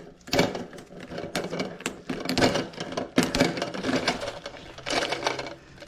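Irregular clicks, knocks and rubbing as a rubber seal is pushed onto a plastic toilet flush valve and worked until it seats.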